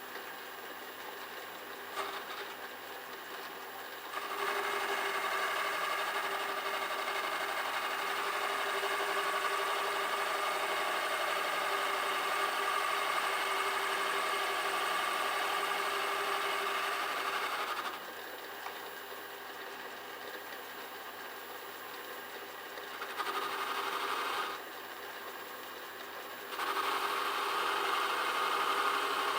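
Metal lathe running steadily as a ball-end turner cuts the workpiece. The cutting noise grows louder for a long stretch starting about four seconds in, again briefly later, and once more near the end, as the tool is swung into the work.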